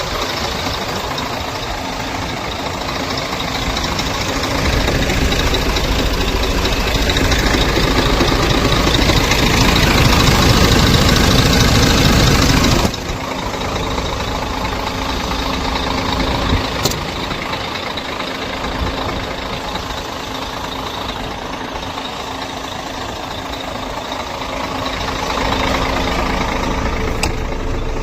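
Scania truck's diesel engine running steadily. It grows louder over several seconds, drops abruptly about halfway through, then carries on at the lower level with a few light clicks.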